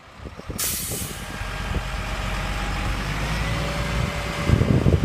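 Kodiak boom truck's engine running, with a short burst of air hiss about half a second in, like an air brake releasing. The engine grows louder and rougher near the end.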